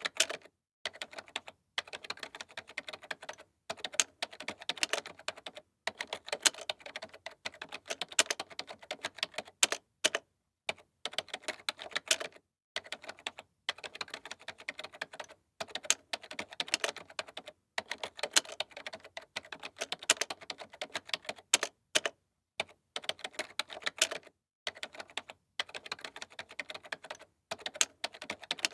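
Computer keyboard being typed on in quick runs of key clicks, broken by brief pauses every second or two.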